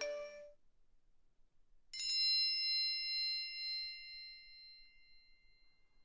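Phone alert chimes: the tail of a short alert tone at the very start, then about two seconds in a single bright ding that rings out and fades slowly over about four seconds.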